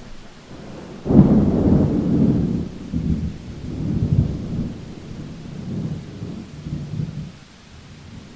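Thunder in a rainstorm: a sudden clap about a second in rolls on as rumbling for about six seconds, swelling twice more before it dies away, over a steady hiss of rain.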